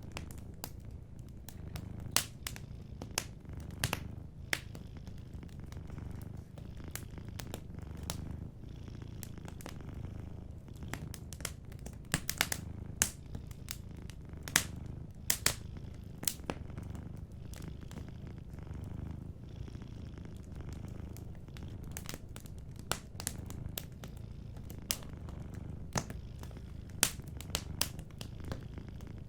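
A domestic cat purring, a low continuous purr that swells and eases with its breathing, over a wood fire crackling with sharp pops scattered irregularly throughout.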